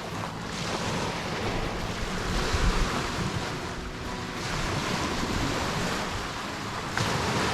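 Wind gusting across the camera microphone, a rushing noise that swells and eases every second or two.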